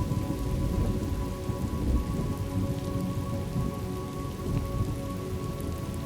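Steady rain with a low rolling rumble of thunder under it, and a soft held drone of steady tones throughout.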